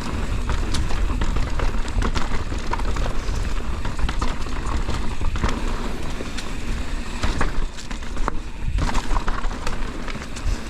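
Mountain bike riding fast down a dirt trail: steady wind rush on the microphone and tyre noise, with frequent clicks and rattles from the bike over rough ground.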